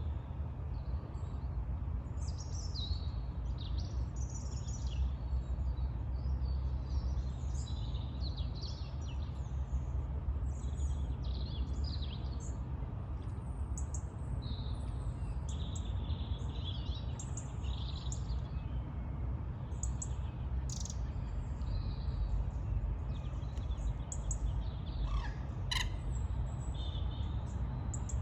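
Birds chirping and calling, with short calls scattered throughout, over a steady low rumble of outdoor background noise.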